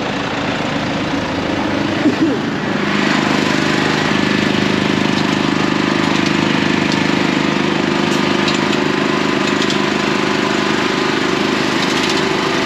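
Steyr tractor's diesel engine running at a steady speed after its hydraulic oil leak has been repaired. A short knock comes about two seconds in, and the engine grows louder soon after and then holds steady.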